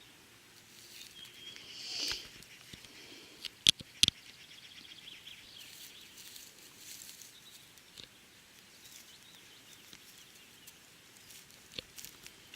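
Cat playing with a newborn mouse on the forest floor: soft rustling in the litter, a few sharp clicks around four seconds in, and a faint high squeak about two seconds in.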